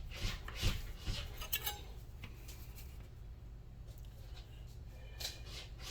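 Light clinks and knocks of kitchen items being handled and set aside: a few sharp clicks in the first two seconds, then more near the end.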